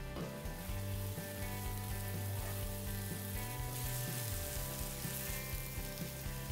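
Onion-tomato masala frying in a cast iron skillet, a low steady sizzle as it is stirred with a wooden spatula.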